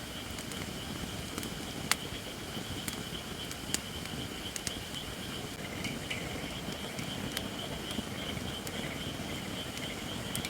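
Wood fire of not fully seasoned Japanese white oak (shirakashi) logs crackling, with scattered sharp pops, the loudest about two seconds in and another nearly four seconds in. A steady high-pitched sound runs underneath throughout.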